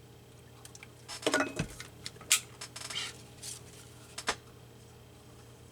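A drink being picked up, drunk from and set back down on the table: a few scattered light clinks and knocks, the last a sharp knock a little over four seconds in.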